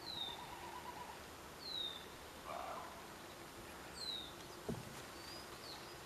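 Wild birds calling: a thin, high note slurring downward, heard three times, with a rougher, lower call about halfway through.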